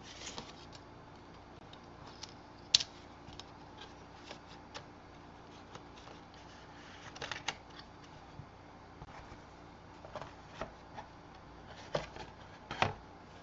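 Cardstock and a small picture frame being handled by hand: scattered light clicks and taps with soft paper rustling. The sharpest click comes about three seconds in, and there are a few more near the end.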